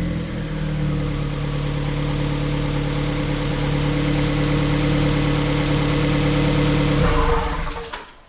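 Fiat 500 Abarth turbocharged four-cylinder engine idling steadily through an exhaust with no muffler, only a turbocharger, catalytic converter and a Y pipe to two stainless tips. About seven seconds in its note drops and the engine is shut off, stopping about a second later.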